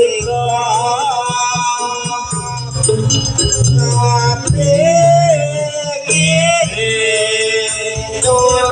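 Javanese jaranan music: a melody line with long, wavering held notes over the ensemble's steady accompaniment, with light rattling percussion.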